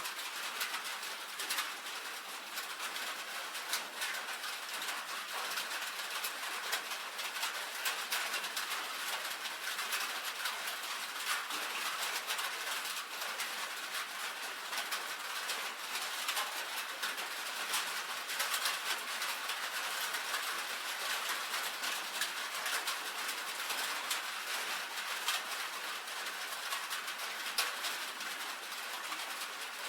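Steady rain on a tin roof: a dense, even patter of drops ticking on the metal sheet.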